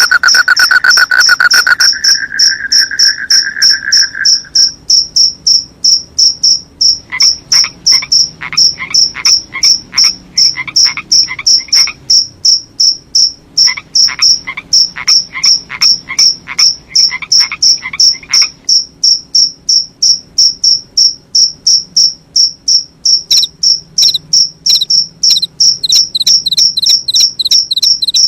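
Crickets chirping at night: a steady, high, evenly paced chirp several times a second throughout, with a second cricket joining near the end. A lower trill fades out after a few seconds, and twice a run of lower, rising calls comes in for about five seconds, fitting frogs calling.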